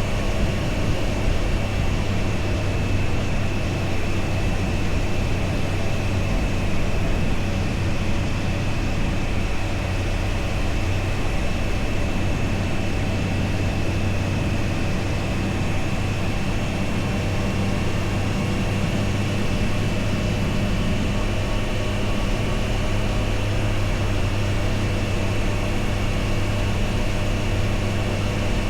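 Triumph Tiger Sport 660 motorcycle's three-cylinder engine running at a steady, nearly unchanging pitch while riding, with no gear changes or big revs.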